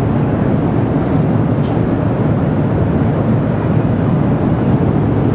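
Ruptured underground steam pipe venting high-pressure steam out of the ground: a loud, steady rumbling.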